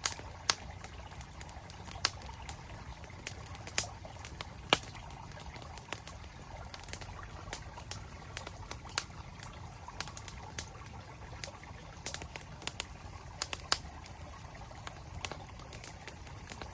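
Campfire crackling, with irregular sharp pops over the steady low rush of a flowing mountain stream; the loudest pops come about half a second in and again near five seconds in.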